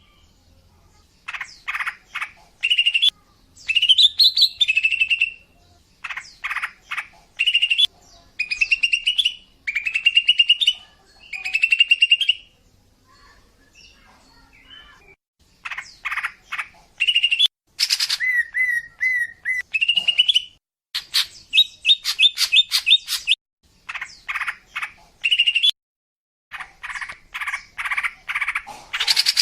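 Female greater green leafbird (cucak ijo) calling: repeated short chirping phrases and rapid trills, with a quieter pause about halfway through.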